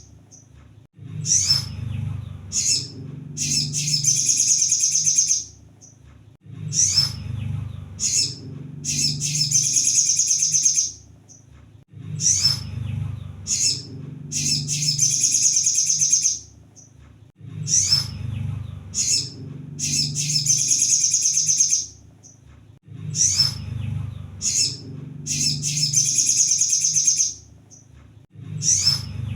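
Crimson sunbird (kolibri sogon) singing: a few sharp, high chips, then a high, rapid trilled phrase of about two seconds. The pattern repeats about every five and a half seconds as a loop, over a low steady hum.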